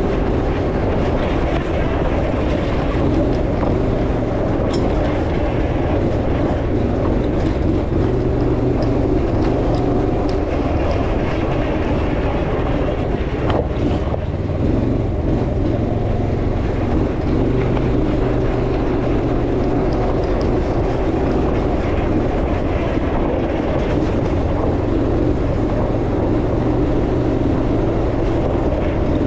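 Off-road buggy engine running under load through a timed lap, a steady loud drone with the revs rising and falling a little.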